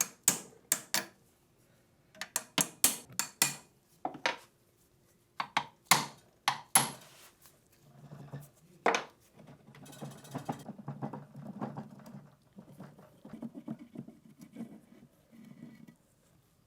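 Small metal machine-gun parts clinking and clicking as they are handled and set down: a run of sharp clinks, one louder clink about nine seconds in, then softer scraping and rubbing of metal.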